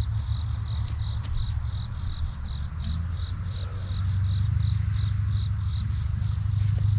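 Insect chirping in a steady rhythm of short high pulses, about three a second, over a low steady rumble.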